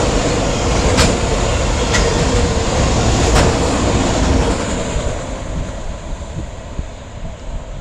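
Norfolk Southern train's cars rolling past, with a few sharp wheel clicks over the rail joints, then the noise fades away about five seconds in as the train goes by.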